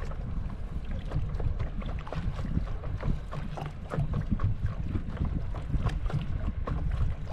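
Wind rumbling on the microphone, with irregular splashes and slaps of lake water against a paddle board.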